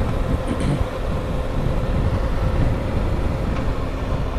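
Wind and road noise buffeting a helmet-mounted microphone while riding a Honda CBR1000RR, with the inline-four engine's steady hum underneath.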